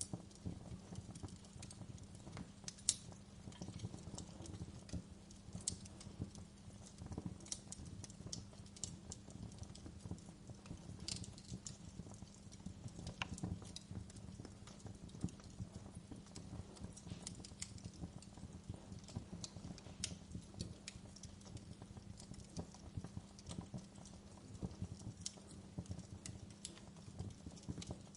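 Wood fire crackling in a fireplace: irregular sharp pops and snaps over a low steady rumble of burning, with one louder pop about three seconds in.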